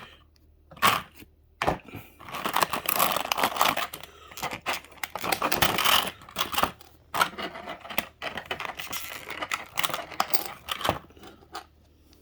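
Packaging rustling, crinkling and tearing as a model airliner's parts are unwrapped, with a few sharp clicks and knocks at the start.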